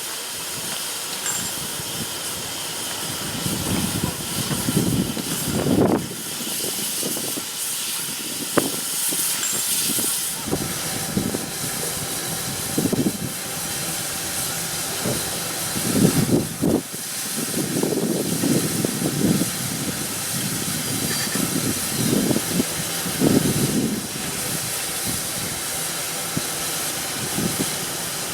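Steam locomotive standing in steam, hissing steadily, with irregular low puffs and rumbles over the hiss.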